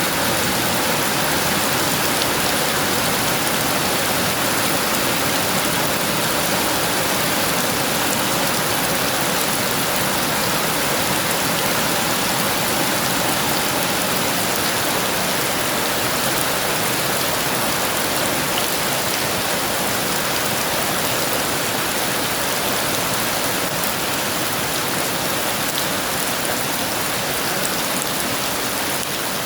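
Heavy rain falling steadily, a dense even hiss of drops on a surface, with no thunder.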